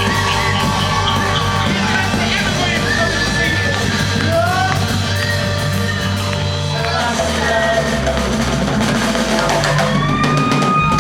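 Live reggae band playing a riddim: a deep, steady bass line and drum kit, with sliding melody lines above.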